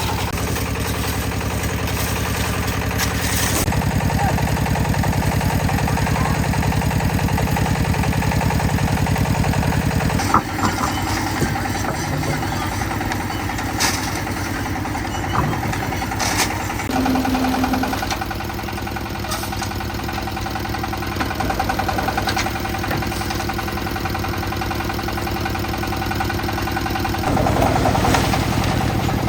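An engine running steadily, its note and loudness shifting a few times, with a few sharp knocks and clanks.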